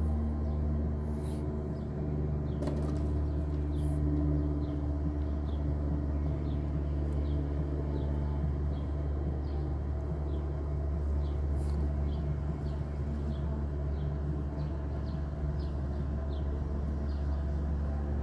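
Vehicle engine idling steadily with a low, even hum, with faint high chirps repeating about twice a second and a few clicks over it.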